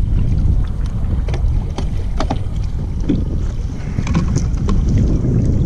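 Strong wind buffeting the microphone with a heavy, steady low rumble, while small waves slap and tick against the kayak's hull throughout.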